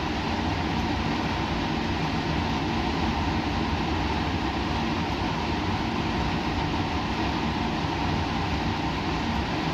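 Steady laboratory background noise: a constant, even rush with a faint low hum underneath that does not change.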